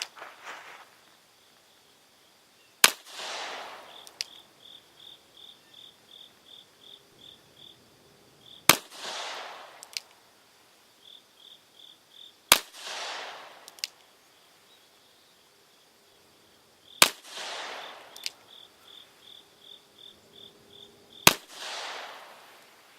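Smith & Wesson Victory Model revolver in .38/200 firing five single shots, several seconds apart, each a sharp crack with a ringing echo, shooting handloaded 200-grain cast lead bullets seated deep in the case. Between shots insects chirp in rapid pulses.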